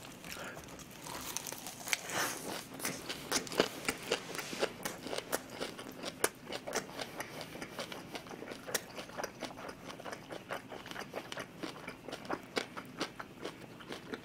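A person chewing a mouthful of lettuce wrap (ssam) with pork belly, mushroom and pickled radish: irregular crunches, several a second, throughout.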